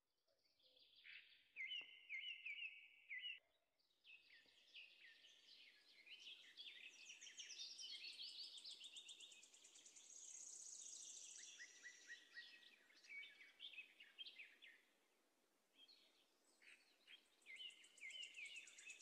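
Faint songbirds chirping and trilling, several short repeated phrases overlapping, with brief lulls about four seconds in and again near fifteen seconds.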